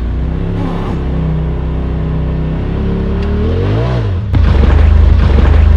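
Side-by-side UTV engine running steadily, revving up and back down about four seconds in, then a sudden, much louder low rumble.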